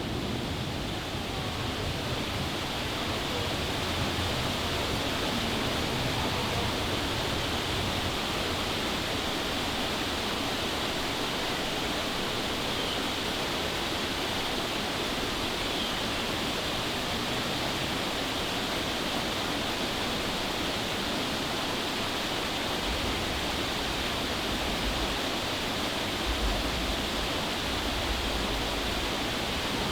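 Steady, unbroken rushing of falling water, even in level throughout, with a faint low rumble coming in during the last few seconds.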